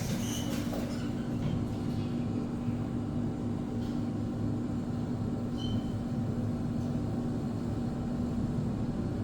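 ThyssenKrupp TK-50L high-speed elevator car travelling, a steady low rumble with a constant hum inside the cab. Two brief high beeps are heard, just after the start and again about halfway.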